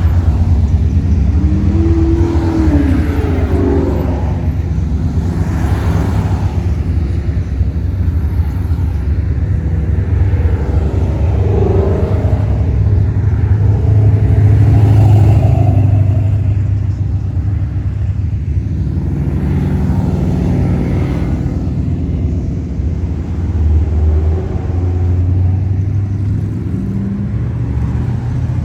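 Classic car engines rumbling as the cars cruise slowly past, with a steady low drone that swells loudest about halfway through as one car passes close.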